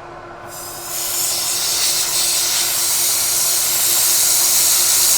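Compressed air blast hissing steadily onto the milling cut, coming on about half a second in, to cool a hot end mill and clear the chips, over the steady hum of the running Bridgeport mill.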